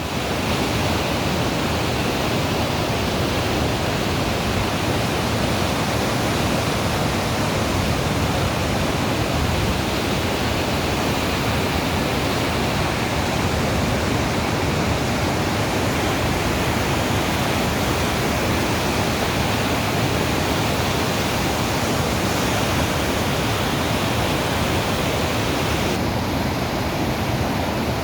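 River water rushing, a steady, unbroken roar of flowing water.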